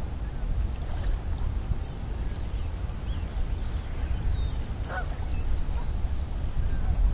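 Birds calling by the lakeshore over a steady low rumble: a quick burst of high, falling chirps about four to five seconds in, with one lower, honk-like call among them.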